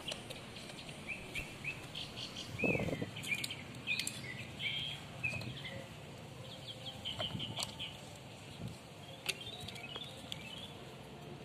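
Small birds chirping over and over, short high notes scattered through, with a few light clicks and a brief low rustle about three seconds in.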